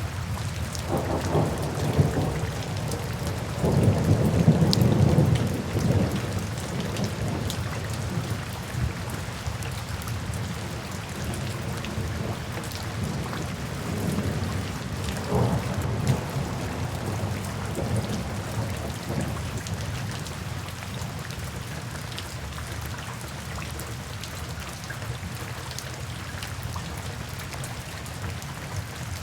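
Steady rain falling, with low rolling rumbles of thunder. The loudest rumble comes about four to six seconds in, a weaker one around the middle, and the thunder dies away in the later part, leaving the rain.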